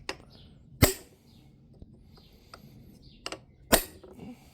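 Two hammer blows on a steel drift, about three seconds apart, each with a short metallic ring, tapping a hardened steel bearing home into its seat. A few faint light taps and clinks fall between the two blows.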